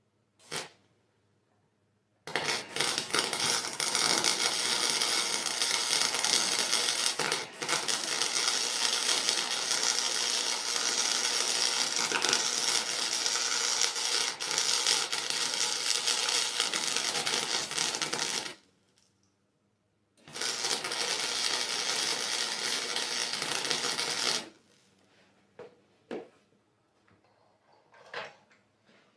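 A loud, continuous, crackling metalworking tool at work on metal, in two long runs: the first lasts about sixteen seconds with a brief dip about five seconds in, and the second lasts about four seconds, with a few light knocks around them.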